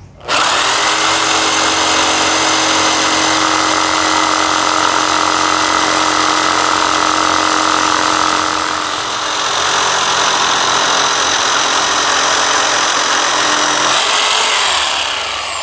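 DeWalt DW331K top-handle jigsaw switching on and running steadily as it makes a straight cut through a length of 2x3 wood, then winding down with a falling whine near the end.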